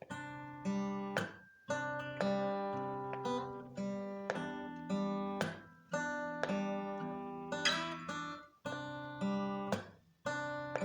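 Acoustic guitar strummed in a rhythmic chord pattern, each strum ringing and fading before the next, with a few brief damped pauses.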